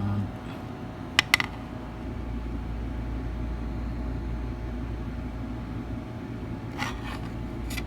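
Steady low hum with two sharp clicks about a second in and a short run of lighter clicks near the end.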